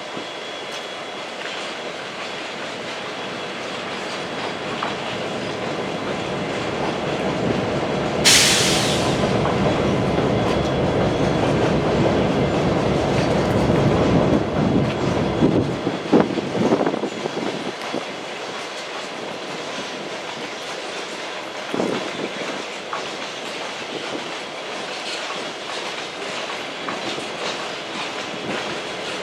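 Train passing: its rumble builds to a peak about halfway through and drops off sharply, followed by wheels clacking over rail joints as the cars roll by. A sharp hiss cuts in about eight seconds in and fades within a second.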